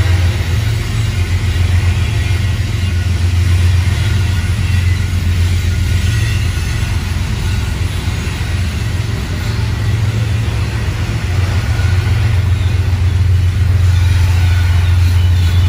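Freight train cars, covered hoppers and tank cars, rolling past: a steady, loud, heavy rumble of steel wheels on the rails.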